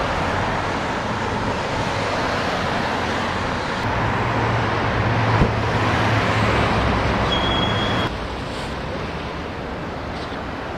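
Road traffic noise with a vehicle engine rumbling, heavier through the middle, a single sharp knock about halfway, and a brief high beep just before the rumble drops back.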